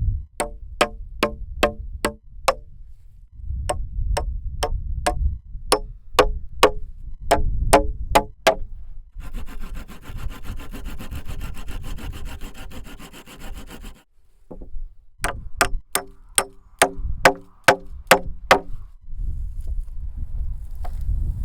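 Hammer blows, about three a second in runs of two to seven, each with a short metallic ring, typical of driving nails into timber. Between the runs of blows, a steady buzzing from a small machine runs for about five seconds.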